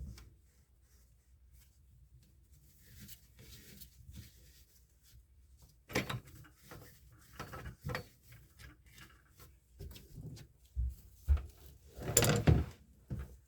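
Sink drain pipe fittings being handled and fitted together: scattered knocks and clicks starting about six seconds in, loudest near the end.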